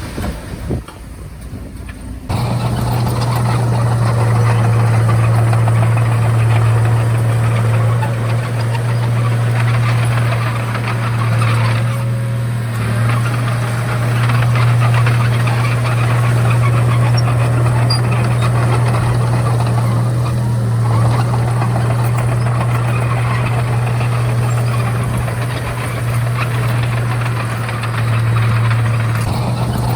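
Bulldozer's diesel engine running steadily with a deep, even hum, coming in loud about two seconds in after a quieter start.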